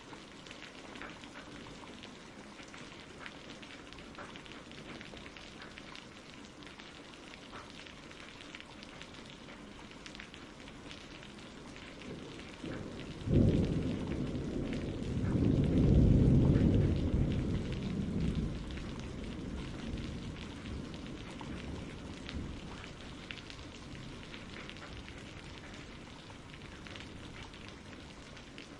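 Steady rain pattering throughout, with a clap of thunder about halfway through that rolls into a low rumble, swelling and then fading over several seconds.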